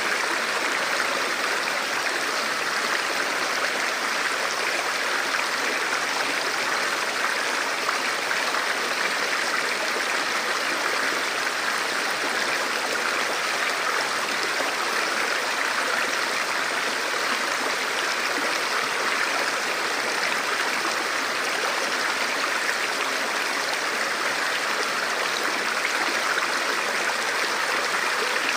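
Forest stream or small river flowing steadily over rocks, an even rush of water.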